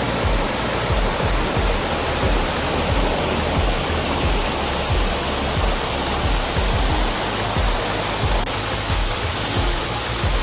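Steady rushing of a waterfall: a dense, even wash of falling water.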